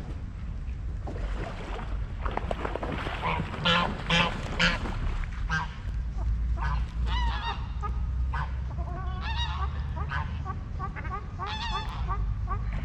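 Geese honking: three loud honks about four seconds in, followed by a long run of shorter, quicker calls, over a steady low rumble.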